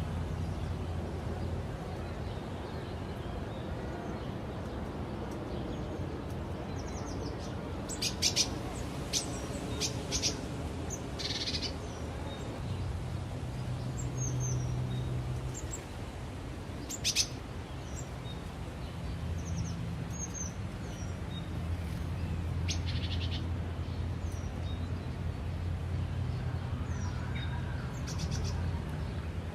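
Songbirds chirping, with short high calls and quick trills scattered through, the loudest about a third and about halfway through, over a steady low background hum.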